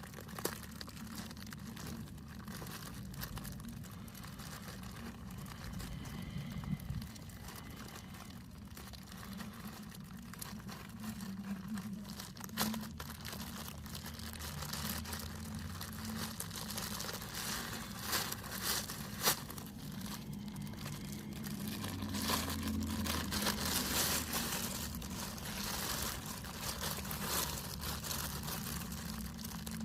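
Paper napkins and paper towels crinkling and rustling as a sandwich is wrapped by hand, with scattered light clicks and knocks; the handling grows louder near the end.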